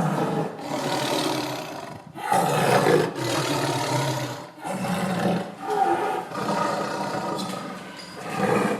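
A lion roaring in a series of long, deep calls, each lasting about one to two seconds.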